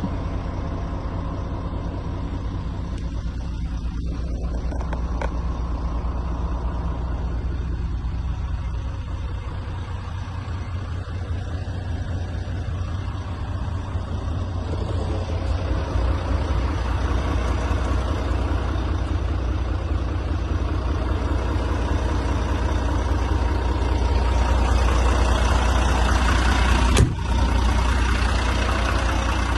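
Volvo FM 300 truck's six-cylinder diesel engine running steadily, growing gradually louder over the second half. A brief sharp sound cuts in near the end.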